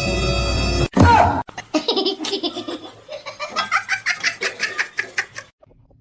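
Tense music cuts off just before a second in, followed by a loud short cry falling in pitch. Then a person laughs hard in rapid pulses, trailing off near the end.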